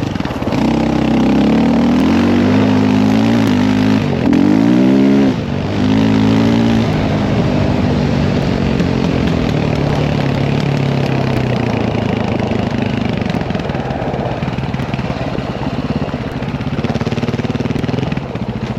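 Dirt bike engine running under load, revving up and down sharply several times in the first few seconds, then settling to a steadier, lower run.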